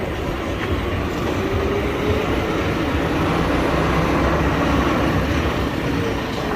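Steel roller coaster train rumbling along its track, a steady rolling roar with a wavering wheel whine that swells towards the middle and eases near the end.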